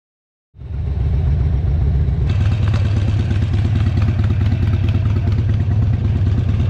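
Harley-Davidson V-twin motorcycle engine running steadily with a fast low pulse, cutting in abruptly about half a second in; more mechanical clatter joins about two seconds in.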